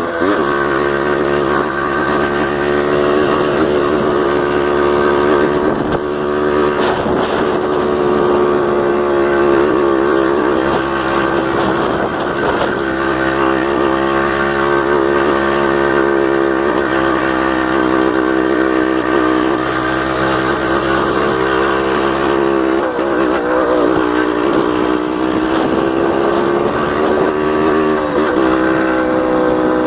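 Yamaha DT 180's two-stroke single-cylinder engine running as the motorcycle is ridden, its revs rising and falling with the throttle.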